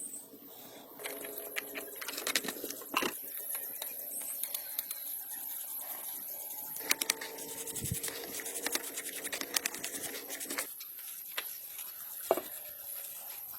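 Hand tools working on engine parts: irregular sharp clicks and knocks with scraping, and a few brief squeaky tones.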